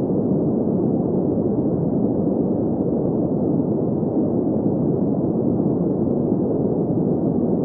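Green noise: a steady synthetic hiss with its energy in the low-mid range and nothing high, unchanging throughout.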